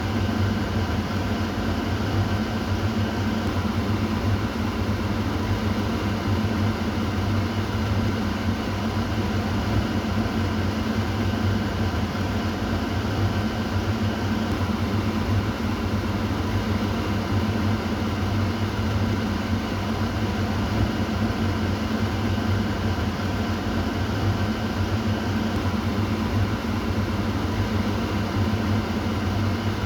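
Kitchen exhaust fan running steadily: a constant rushing of air over a low motor hum.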